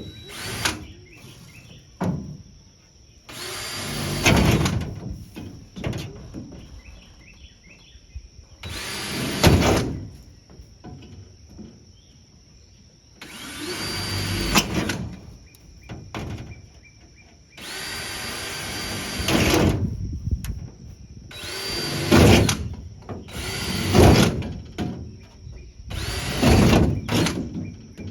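Power drill boring holes through a car's decking panel, run in repeated bursts of one to two seconds with short pauses between. Crickets chirp steadily in the background.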